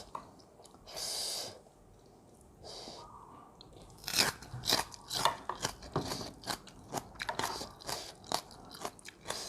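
Close-up chewing of crunchy food, a dense run of crunches and crackles starting about four seconds in, after a brief hiss about a second in.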